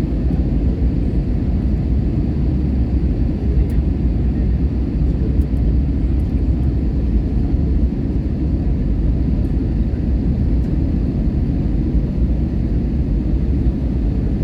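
Steady low rumble of an airliner during its landing, with a few faint ticks now and then.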